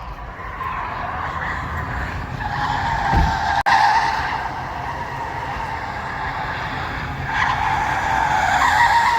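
A vehicle on the move with steady tyre and road noise that swells and eases. The sound drops out for an instant about three and a half seconds in.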